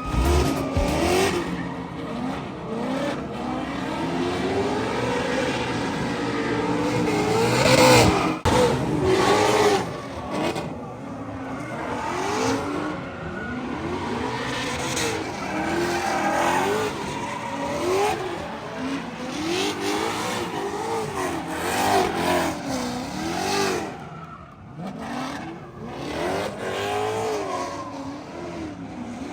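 A drift car's engine revving up and down over and over as the car slides, with its tyres squealing.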